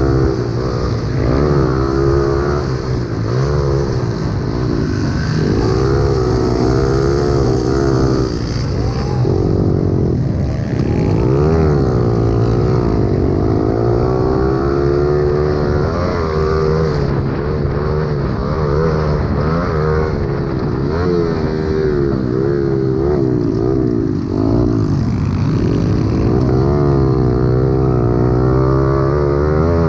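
Several pit bike engines racing together, their pitch rising and falling over and over as the riders accelerate, shift and back off.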